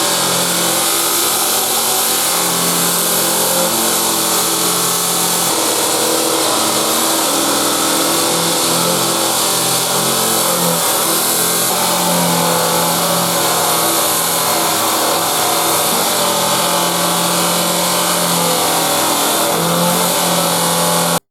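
Motor-driven polishing wheel running steadily as it buffs a steel wrench toward a mirror finish.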